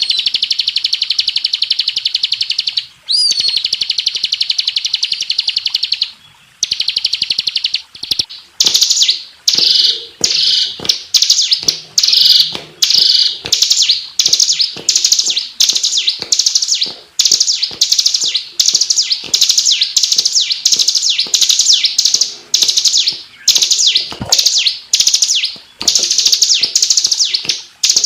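Bar-winged prinia (ciblek) singing: a long, rapid, unbroken high trill that breaks off about six seconds in, then short chattering phrases repeated about twice a second.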